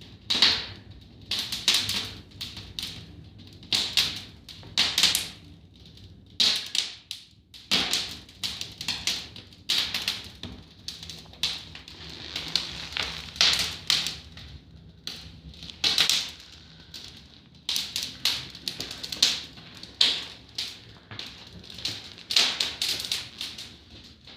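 Firewood crackling and popping as it burns in a fireplace, with sharp, irregular snaps that come in quick runs.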